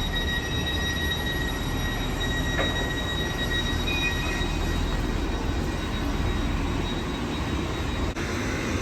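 A train running at a station platform: a steady rumble with a high, steady whine or squeal over it that fades out about halfway through.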